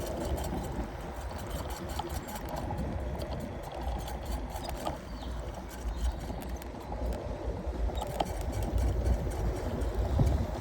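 Riding noise from a moving electric scooter: an uneven, rumbling rush of wind and road noise with a few faint clicks.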